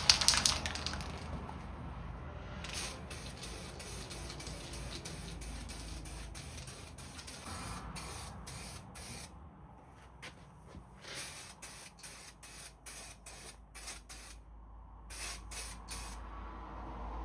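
Aerosol spray-paint can sprayed in a long series of short hissing bursts.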